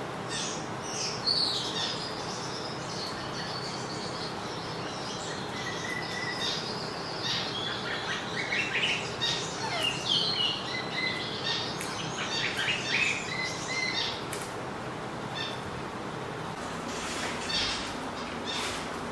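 Many small birds chirping and tweeting together, a busy overlapping chatter for most of the first fourteen seconds, then sparser calls over a steady background hiss.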